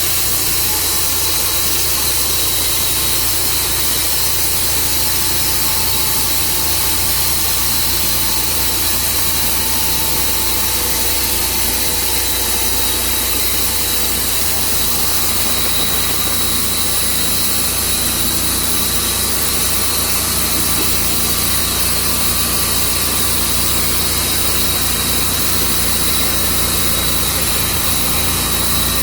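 Tru Cut sawmill running steadily, an engine drone with a constant hiss over it that does not change.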